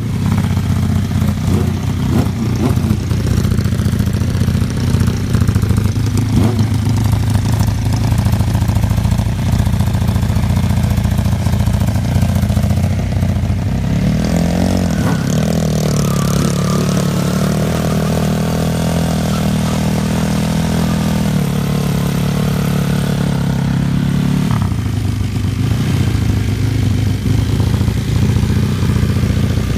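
Superbike engine running at a steady idle, then revved up about halfway through and held at higher revs for several seconds before dropping back to idle.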